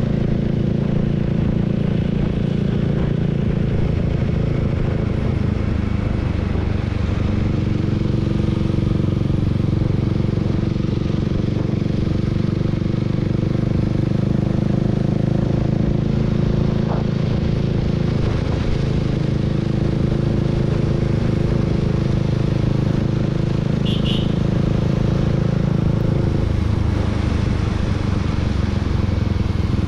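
Honda Rebel 300's single-cylinder engine running steadily at cruising speed, the motorcycle's ride heard from on board. The engine note drops about 27 s in as the throttle eases off, and a brief high chirp sounds a few seconds before that.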